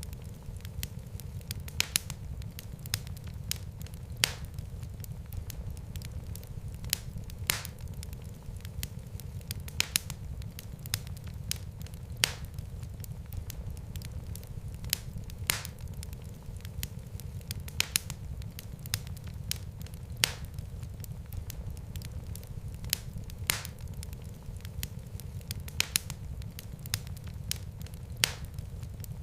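Wood fire burning in a fireplace: a steady low rumble of flames with irregular sharp pops and crackles, a few a second.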